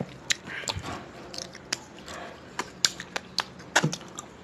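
A person chewing a mouthful of chicken curry, with many short, wet mouth clicks and smacks at uneven intervals.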